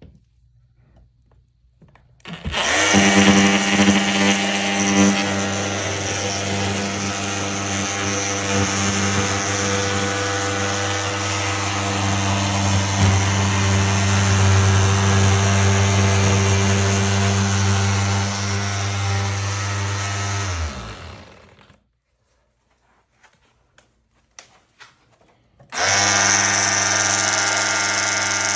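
Makita 18V LXT cordless drywall cut-out saw running and cutting through drywall with a steady motor hum. It starts about two seconds in, runs for almost twenty seconds, winds down and stops. A few seconds later it starts again near the end.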